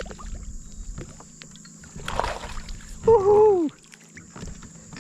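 Knocks and rattles against a kayak hull and a short splash about two seconds in as a hooked bass is landed, then a man's loud "woohoo" whoop.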